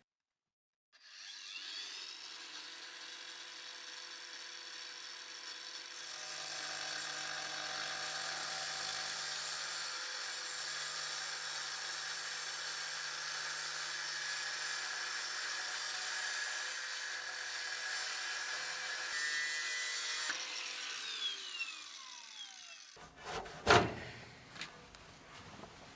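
A power tool spins up, then runs steadily for about twenty seconds, getting louder and harsher about six seconds in as it works, then winds down with a falling pitch. A few sharp knocks follow near the end.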